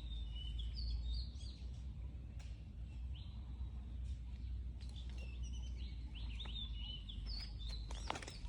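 Outdoor ambience: small birds chirping in short, quick high notes over a steady low rumble, with a louder rising call just before the end.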